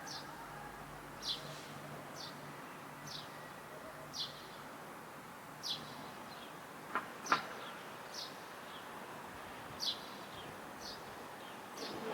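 Eurasian tree sparrows chirping: short, sharp, downward chirps, about one a second. Two sharp clicks close together come just past the middle.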